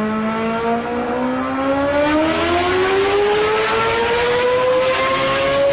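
Indian Railways electric locomotive's traction motors whining, the whine rising steadily in pitch, over the rumble of the running train.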